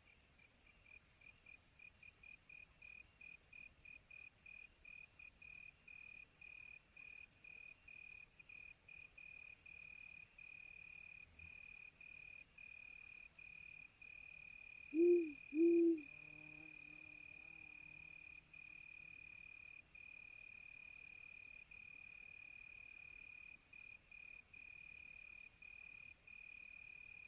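Crickets chirping in a steady high trill, in quick pulses at first and then nearly unbroken, over a high insect hiss. About halfway through, an owl hoots twice in quick succession, the loudest sound.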